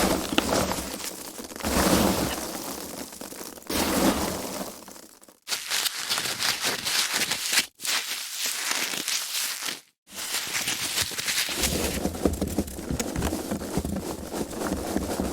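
Foam packaging handled and rubbed: continuous crackly, crinkling noise in several takes, cut apart by brief silent gaps about five, eight and ten seconds in.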